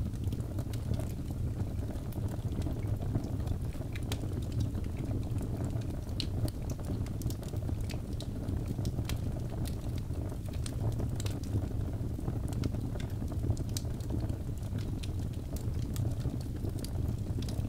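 Birchwood fire burning in a fireplace: a steady low rumble with frequent irregular crackles and small pops.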